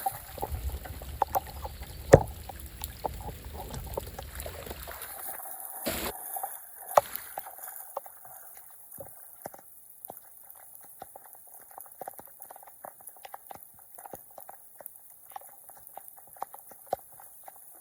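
Water gurgling and splashing as floodwater drains, with scattered small clicks and knocks. It is louder and rushing for about the first five seconds, then settles to a quieter gurgle.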